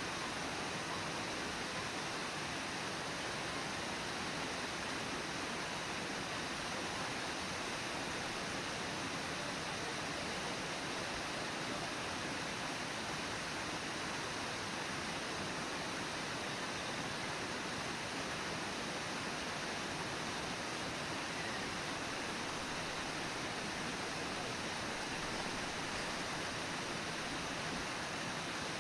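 Brooks Falls waterfall rushing: a steady, unbroken roar of falling water.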